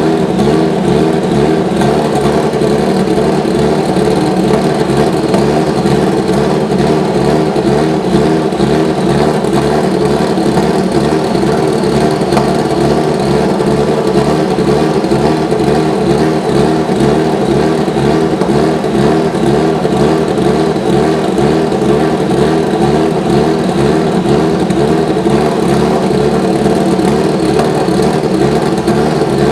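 Subaru Legacy B4 GT300 race car's engine running steadily at an even speed, with a fast pulsing throb underneath.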